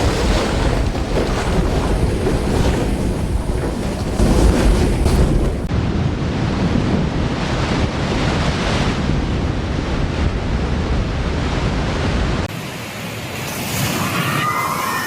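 Typhoon wind and surf: a dense, steady rush of noise with heavy wind buffeting on the microphone. The sound changes abruptly twice, and the last few seconds are thinner, with less low rumble.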